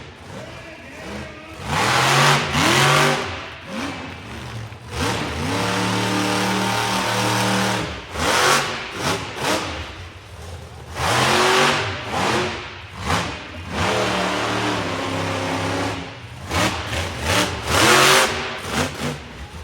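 Monster truck engine revving hard in repeated bursts, the pitch sweeping up and down, with two steadier held stretches in between.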